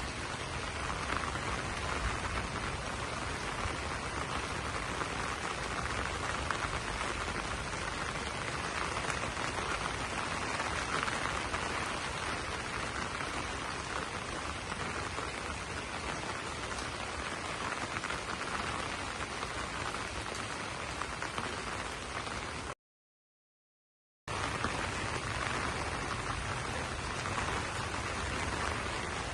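Steady rain pattering on broad banana leaves, an even hiss of drops. It cuts out completely for about a second and a half near the end, then resumes.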